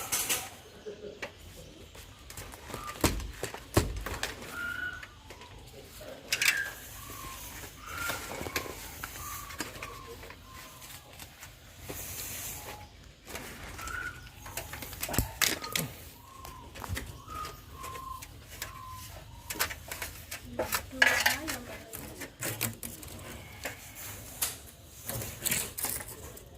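Scattered metallic clinks and knocks of hand tools and parts being handled, with runs of short, high chirping notes in between.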